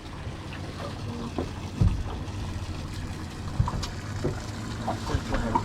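Low steady rumble aboard a small fishing boat, with a couple of dull knocks against the hull or deck.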